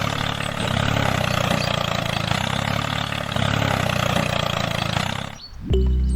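Mini tractor engine idling steadily, cutting off about five and a half seconds in. Music starts just before the end.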